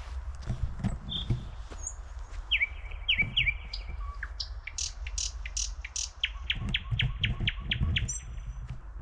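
Small forest songbirds calling: three quick downward-sweeping chirps, then short high notes, then a fast even series of about nine notes near the end. Soft low thuds and a steady low rumble lie underneath.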